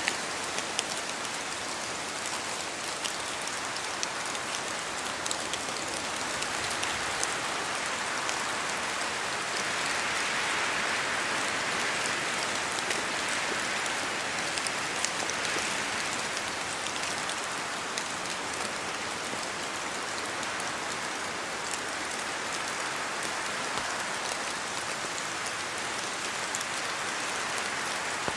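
Steady rain in a forest, with scattered drops falling from the trees. It swells a little louder and brighter around the middle as the wind picks up, then eases back.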